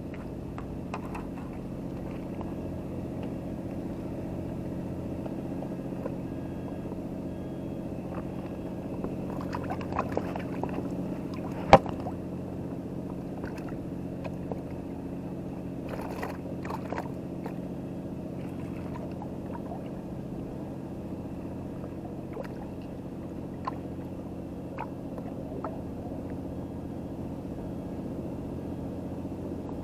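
An engine running steadily, with scattered light clicks and one sharp knock about twelve seconds in.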